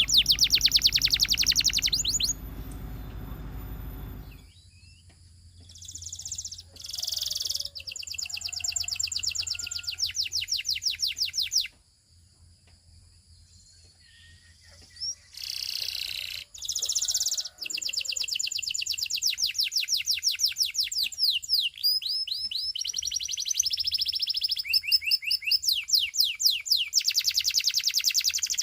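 Canary singing: fast trills of rapidly repeated high, sweeping notes, in phrases broken by short pauses, with a quiet gap of a few seconds near the middle.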